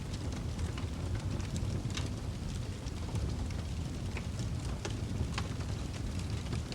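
Wood fire burning in a fireplace: a steady low rumble of the flames with frequent small, irregular crackles and pops, a few sharper snaps around two seconds and five seconds in.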